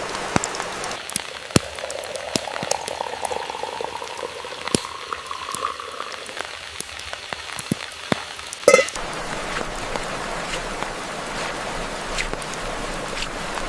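Liquid poured into a cup, its pitch rising steadily as the cup fills, over steady rain pattering with sharp drop ticks. A short, loud ringing clink comes a little before nine seconds in.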